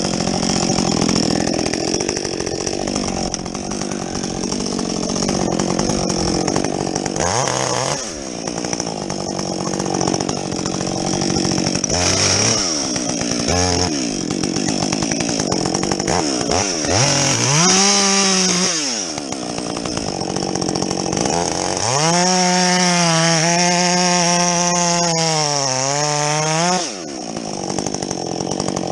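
Husqvarna 562XP two-stroke chainsaw with a modified muffler bucking logs: running hard through the wood for the first several seconds, then revving up and dropping back several times, with a long high-rev stretch near the end that sags in the middle and falls off sharply before revving up again.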